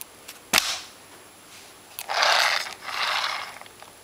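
A sharp plastic click, then two rasping scrapes about two and three seconds in, each under a second long, as an RC truck's battery pack and its clip-in holder are handled and fitted.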